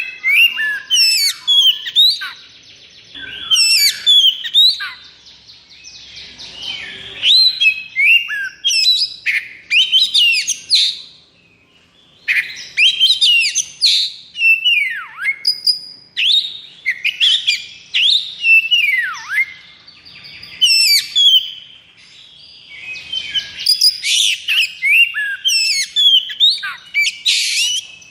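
Oriental magpie-robin (kacer) singing a fast, nonstop 'konslet' song: bursts of rapid, varied whistles and chirps with short pauses, a few harsh buzzy notes, and two long falling whistles about halfway through.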